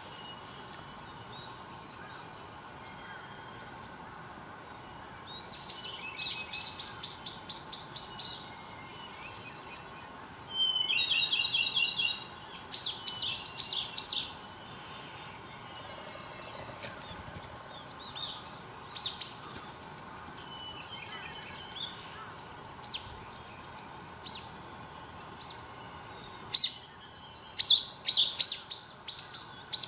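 Wild songbirds singing and calling: phrases of quick, repeated high notes and a short trill come in bursts, over a steady background hum of outdoor noise.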